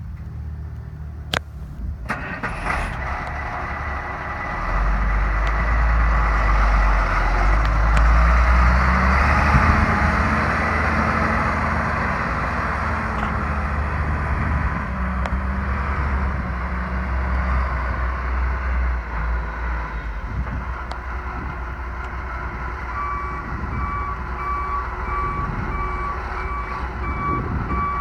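1990 International 4900 dump truck's diesel engine running. It grows louder and heavier about five seconds in, holds for roughly a dozen seconds, then eases back. About 23 seconds in, the truck's reversing alarm starts beeping steadily, and there are two sharp knocks in the first three seconds.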